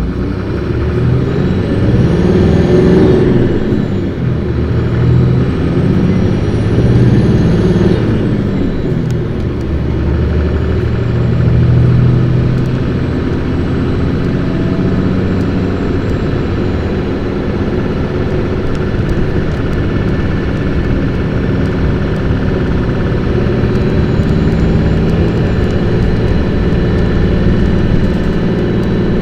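Interior running sound of a 2008 Isuzu Erga (PKG-LV234Q2) city bus accelerating hard. The diesel engine's pitch climbs twice, falling back at each gear change, then settles into a steadier run. A thin high whine rises and falls with the revs.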